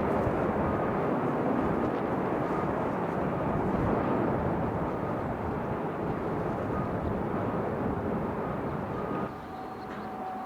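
Jet airliner engines roaring, a steady rush with a faint whine that comes and goes, slowly fading and then dropping off sharply about nine seconds in.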